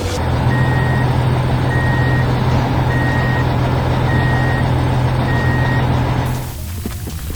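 Heavy construction vehicle's reversing alarm beeping five times, evenly spaced, over its steady running engine. Both stop suddenly near the end.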